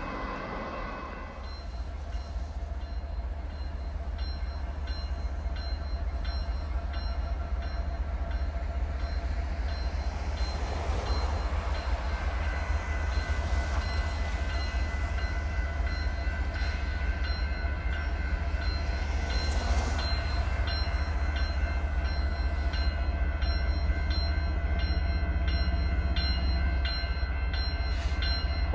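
Diesel freight locomotives approaching, their low rumble growing steadily louder.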